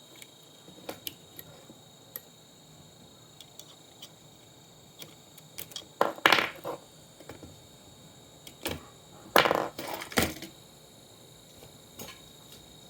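Tools and small hard parts being handled and set down during a monitor teardown: scattered light clicks, then bursts of clatter about six seconds in and again around nine to ten seconds in.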